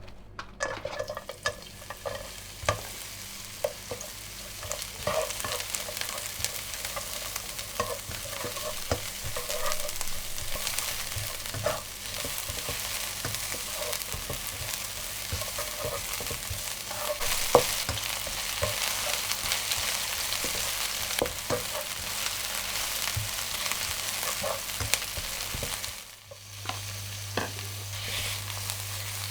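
Food sizzling in oil in a hot pan while a spatula stirs and scrapes it, with frequent clicks and knocks of the utensil against the pan. The sizzle briefly drops out near the end and then resumes.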